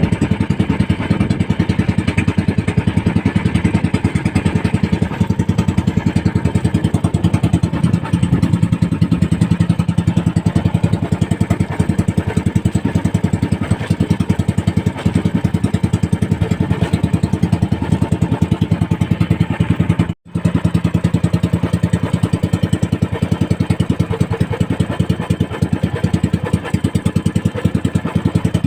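Small boat engine of a motorized fishing banca running steadily at a constant pace, a rapid even chug of firing strokes. The sound drops out for a split second about twenty seconds in.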